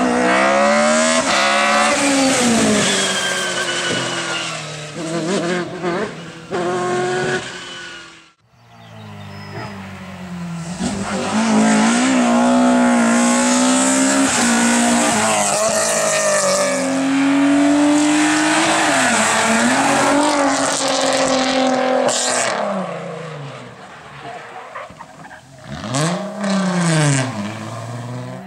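Race car engines at full throttle, revving up and dropping back through gear changes as cars drive past. The sound breaks off sharply about eight seconds in, then another car revs hard, and near the end one sweeps by quickly with its pitch rising and falling.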